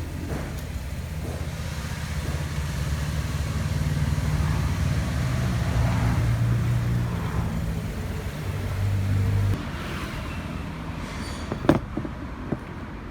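Nissan Teana J32's MR20 four-cylinder engine running, its pitch rising a little midway, then cutting off suddenly about two-thirds of the way through. A single sharp knock follows near the end.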